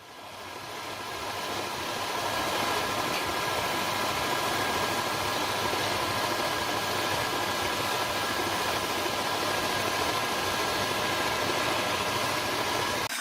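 Power tool motor spinning up over the first couple of seconds, then running steadily with a steady whine, and cutting off abruptly at the end.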